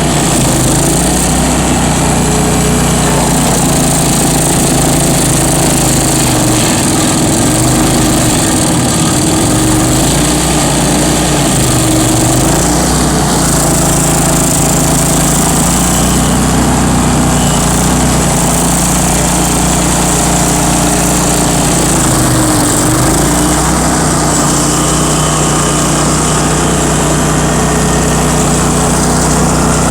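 Bandit ZT1844 stump grinder's engine running steadily at high speed, its pitch sagging briefly and recovering twice, about a quarter of the way in and again about three quarters of the way through.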